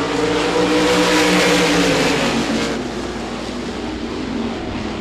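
A field of RaceSaver sprint cars' 305 V8 engines accelerating hard at the green flag. Several engine notes sound together, sliding slowly lower in pitch, and the pack is loudest about a second in before easing off.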